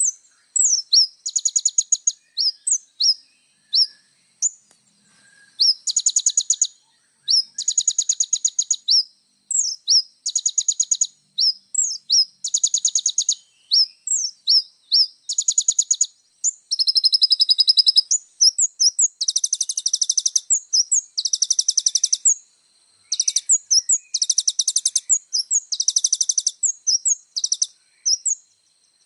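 Brown-throated sunbird (kolibri ninja) singing: high-pitched rapid trills about a second long, repeated again and again, alternating with short sharp chirps.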